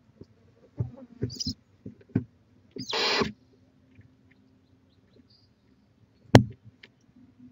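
Barn owl giving one short, harsh hissing screech, with a brief high hiss a couple of seconds before it. Knocks and scuffs sound around it, the loudest a sharp knock about six seconds in.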